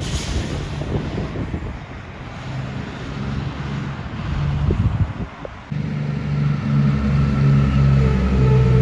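Heavy Kenworth truck's diesel engine coming closer and growing louder, its deep note strong and steady from about six seconds in. A brief hiss sounds at the very start.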